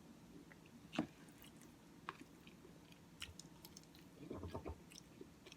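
Faint, close mouth sounds of chewing Cookie Crisp oatmeal: soft scattered clicks, a sharper click about a second in, and a short run of chewing near the end.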